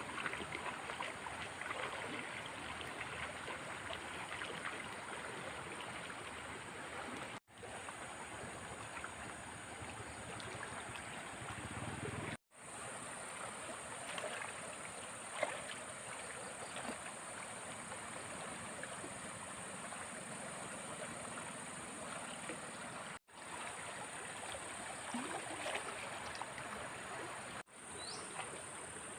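Flowing floodwater, a steady rushing and trickling with small splashes. It drops out abruptly four times.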